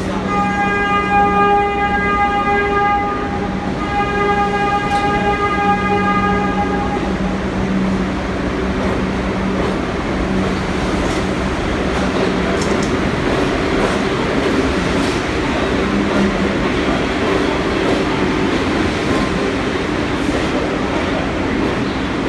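New York City subway train sounding two long horn blasts of about three seconds each, over the steady rumble and clatter of the train running through the station.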